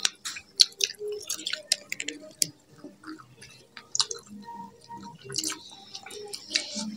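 Close-miked eating sounds: irregular wet mouth clicks, lip smacks and chewing from two people eating with their hands.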